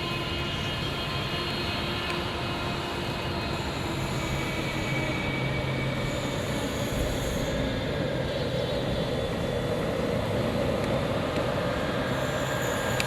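Jet airliner engines running: a dense, steady noise with faint steady tones, growing slightly louder in the second half.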